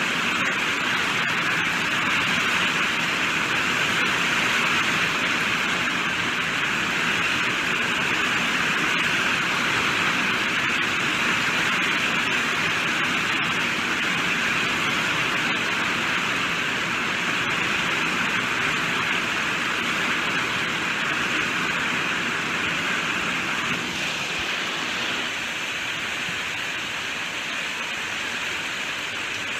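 Steady rainfall, a dense even hiss of drops, easing slightly about 24 seconds in.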